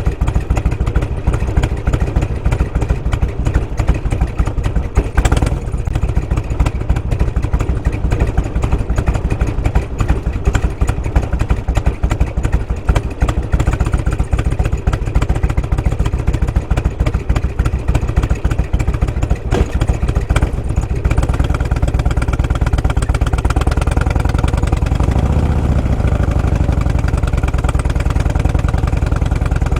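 Motorcycle engine running with a fast, even beat of exhaust pulses. About 21 s in the sound turns steadier, and around 25 s the pitch briefly rises and falls.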